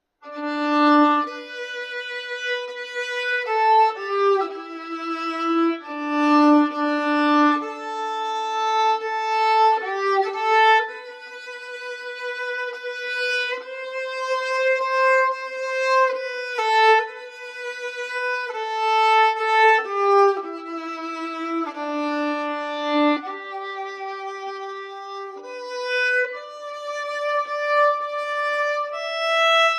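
Solo violin playing a slow hymn melody, one held note at a time, each lasting about one to two seconds.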